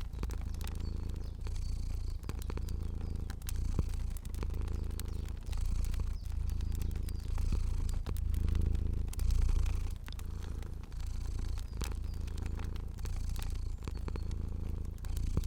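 A cat purring steadily, the low purr pulsing in even cycles of about a second and a half as it breathes in and out, over the scattered pops and clicks of a crackling fire.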